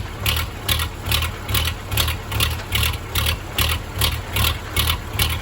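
1963 Case 310F crawler bulldozer's diesel engine idling with an even, rhythmic pulse of about four beats a second. It is running on its own soon after a cold start made without starting fluid or the grid heater.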